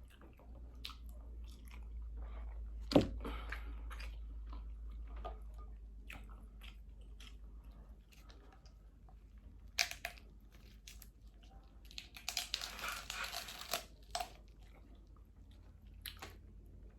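Close-up eating of seafood-boil crab legs: chewing with scattered clicks and crunches of shell being broken. There is one sharp crack about three seconds in, and a denser stretch of crunching a little past the middle.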